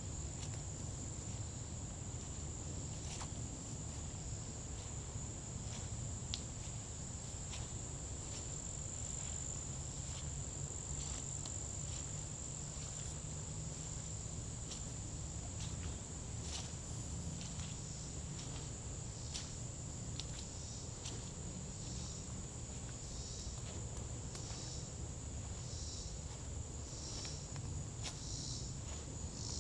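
A steady, high-pitched trill of insects, likely crickets, runs throughout, with soft footsteps crunching on a forest path. About two-thirds of the way through, a second pulsing insect call joins in, repeating about once a second.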